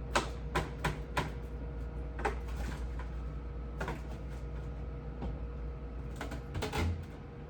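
Scattered clicks and knocks of things being handled and set down in a refrigerator during cleaning, with a dull thump near the end, over a steady low hum.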